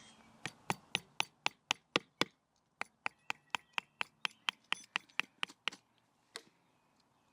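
Batoning wood to split it: a wooden baton knocking in quick, even strokes about four a second, in two runs with a short break between them and one last knock near the end.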